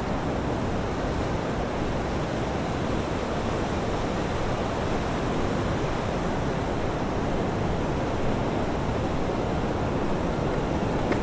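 Steady rushing noise of sea surf and wind, with no distinct breaks or swells.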